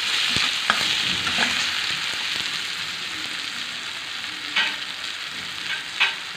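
Tomatoes and spices frying in hot oil in a metal kadhai with a steady sizzle that eases a little, while a steel ladle stirs them. The ladle knocks and scrapes against the pan a few times, most clearly twice near the end.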